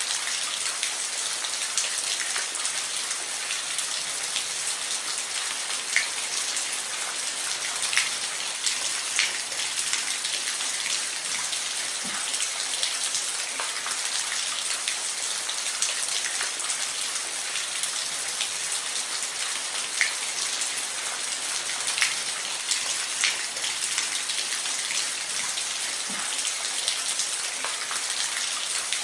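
Steady rain falling on a roof, an even hiss with individual drops ticking sharply now and then.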